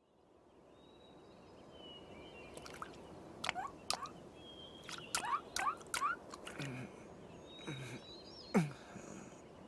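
Water dripping in a cave: single drops fall one after another, each a short plink that drops quickly in pitch, over a low hiss of cave ambience that fades in over the first couple of seconds.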